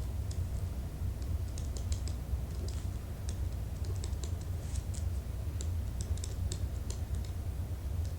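Typing on a computer keyboard: irregular keystroke clicks, a few a second in short runs, over a steady low hum.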